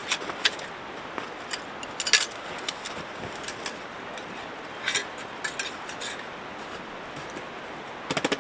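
Metal camping cookware clinking and knocking as it is handled, in scattered clicks with a louder clatter about two seconds in and another near the end.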